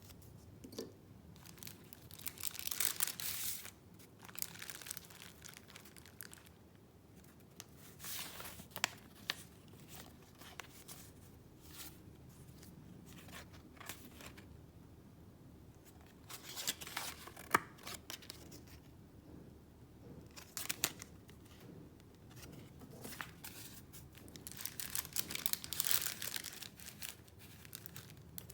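Paper rustling and crinkling as the sheets and paper pieces of a handmade junk journal are handled, in several bursts with small sharp clicks and taps in between.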